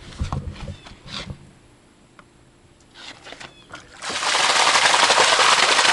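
Running water starts abruptly about four seconds in, a loud, steady hiss, after a few quiet seconds with light handling knocks.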